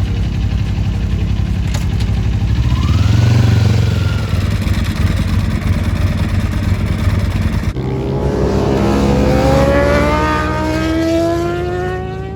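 Motorcycle engines running, with a brief rev about three seconds in. Later, after an abrupt change, one motorcycle accelerates hard, its engine note rising steadily in pitch.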